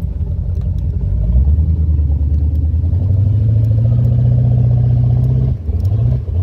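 Mercruiser 454 Magnum MPI big-block V8 in a Baja H2X boat running under throttle at launch. Its pitch rises about a second in and then holds, and it drops out briefly twice near the end, a misfire that the owner puts down to the engine needing a tune-up.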